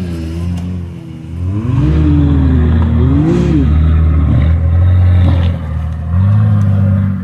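Off-road 4x4 engine revving hard, its pitch rising and falling several times with short lulls between pushes.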